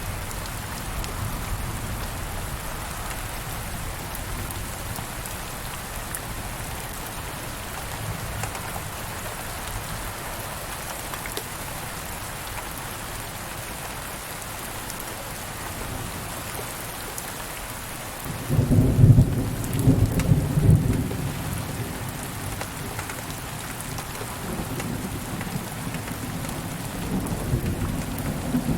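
Steady rain falling, with a loud clap of thunder about two-thirds of the way through that rumbles on for several seconds before fading to a lower rumble.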